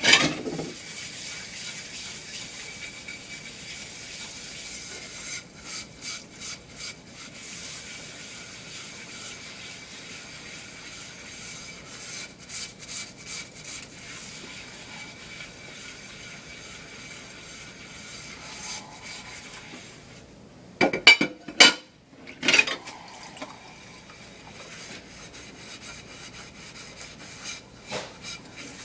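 Dishes being washed by hand: a steady hiss of running water with rubbing, scrubbing strokes, and a loud clatter of dishes about 21 seconds in.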